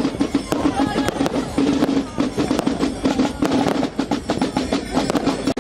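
Fireworks going off in quick succession, a dense run of sharp cracks and bangs, with music playing underneath.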